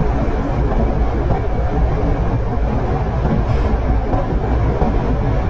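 PATCO rapid-transit train running at speed, heard from inside the car as a steady low rumble of wheels on rail.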